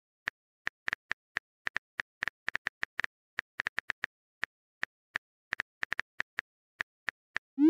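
Smartphone keyboard key-tap clicks, a quick uneven run of short taps about three to four a second as a message is typed, ending in a short rising whoosh just before the end as the message is sent.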